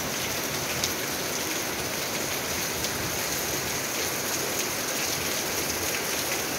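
Heavy rain falling steadily, an even hiss of rain on surfaces with scattered sharp ticks of individual drops.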